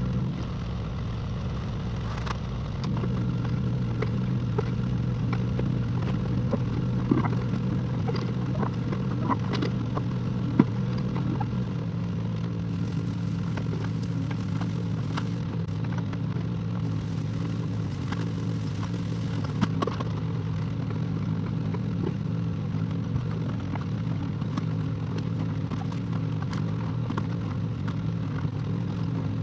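Excavator's diesel engine running steadily, with scattered clanks and scrapes from the machine at work.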